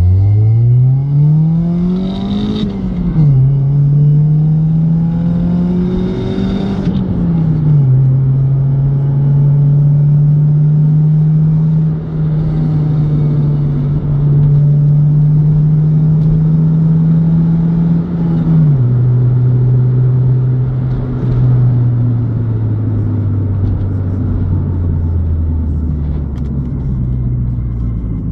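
Honda D16A 1.6-litre four-cylinder engine and exhaust heard from inside the car's cabin while driving: the engine note rises twice under acceleration with a sudden drop at each gear change, holds steady for about ten seconds, then drops and slowly falls away as the car slows. The exhaust sound is one the owner calls bad.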